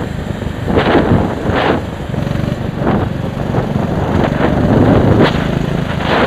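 A small vehicle engine running steadily, nearly buried under heavy wind buffeting on the microphone, with loud gusts about a second in, again shortly after, and twice near the end.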